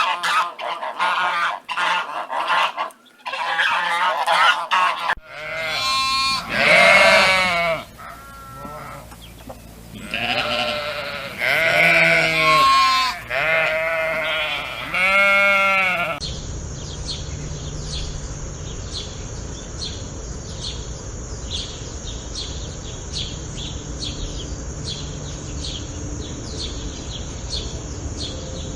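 Farm animal sounds in three parts. First a flock of birds honks and cackles. About five seconds in, that gives way to a string of separate bleats from goats or sheep. From about halfway through, a steady high chirping repeats several times a second.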